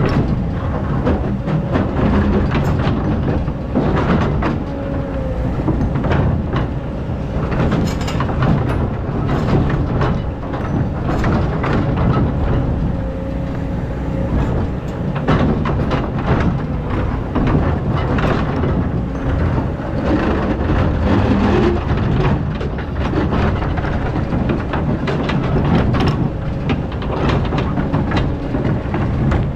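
Excavator digging through a hard layer of compacted old sand: a steady low engine rumble under irregular clattering and knocking from the bucket and tracks working the ground.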